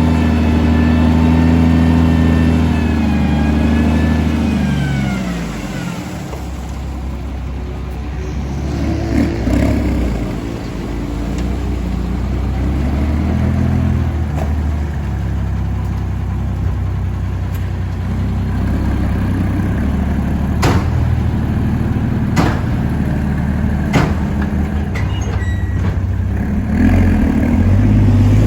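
Heavy diesel engine running, its pitch falling as it slows down about four seconds in, then working on at changing speed. Three sharp knocks come in the second half.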